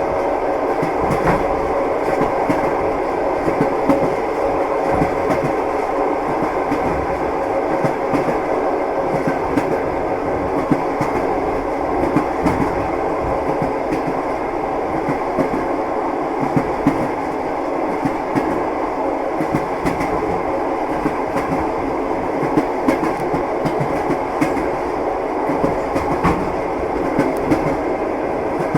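Moving train: wheels clattering over the rail joints above a steady rolling rumble, with frequent short clicks and knocks throughout.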